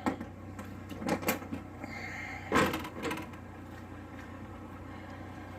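Toolbox lid being handled and shut: a few light clicks and knocks, then one louder thump about two and a half seconds in and a smaller knock just after, over a steady low hum.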